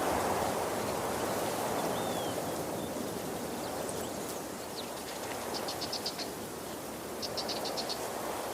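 Steady rushing of a waterfall. Two short, rapid high chirping trills come over it, one near the middle and one near the end, and a single faint chirp comes about two seconds in.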